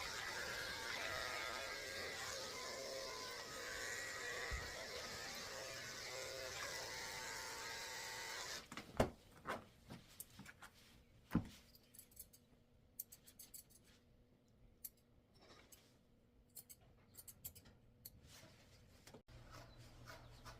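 A steady hiss for the first eight or so seconds cuts off suddenly. After it, grooming scissors snip in short clusters of sharp clicks while the poodle's ankles are trimmed.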